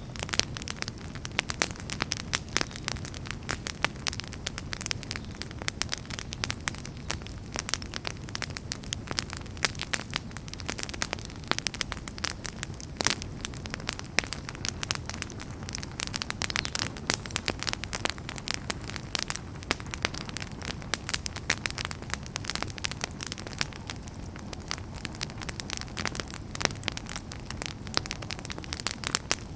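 Wood fire burning, with dense irregular crackles and pops from the burning firewood over a steady low rumble of flame.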